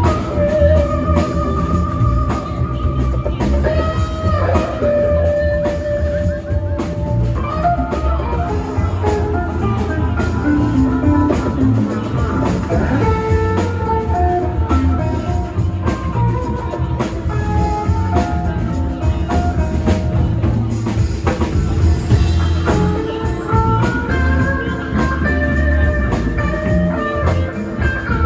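Live band playing an instrumental passage: a lead guitar melody of held and stepping notes over drum kit and bass, with no singing.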